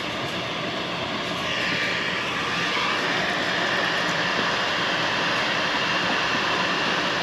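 Steady rushing mechanical noise with a faint high whine, growing louder about a second and a half in.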